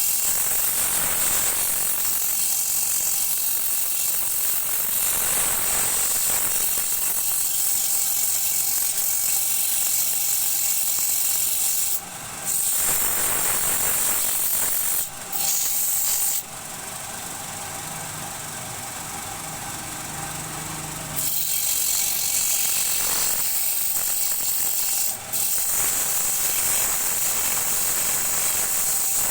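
Wood lathe turning a bowl, a tool cutting the spinning wood with a steady loud hiss. The cut breaks off briefly a few times and drops away for about four seconds near the middle, leaving a lower hum.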